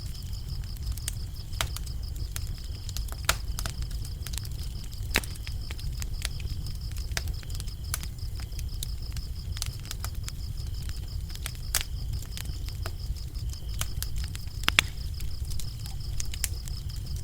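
A wood fire crackling, with sharp irregular pops over a low steady rumble, while crickets trill steadily in a continuous high chirping.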